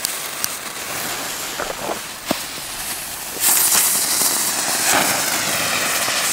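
Two Weco Pirouetten spinner fireworks burning with a steady, rushing hiss that grows louder about three and a half seconds in, with a sharp crack a little after two seconds. Both are performing poorly.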